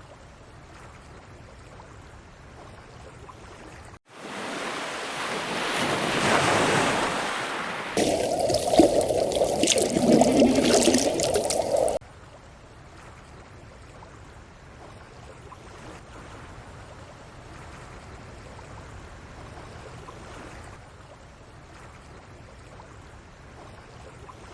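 Running water and surf ambience, changing in abrupt steps. A faint steady rushing gives way about four seconds in to a louder, swelling rush. Around eight seconds it turns louder still, with crackling spatter, then drops back to a faint steady rushing near the twelve-second mark.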